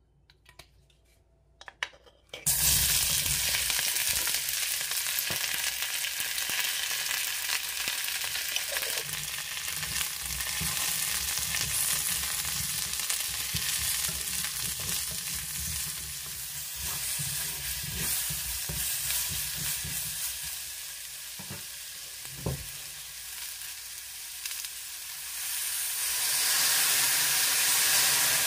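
Chopped vegetables going into hot olive oil in a frying pan about two and a half seconds in, then sizzling loudly as they are stir-fried over high heat, with occasional knocks of a wooden spatula against the pan. The sizzle grows louder near the end as steam rises.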